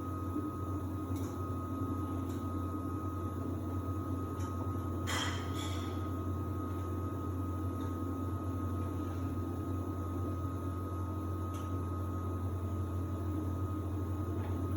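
Samsung WD70T4047CE washer-dryer running steadily in its drying phase: a low hum with a faint steady whine above it. A light click about five seconds in.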